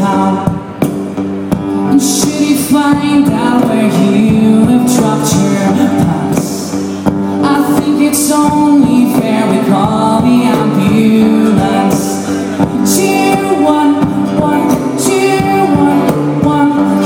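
Band music with singing: a sung melody over sustained chords, with drums and cymbal hits.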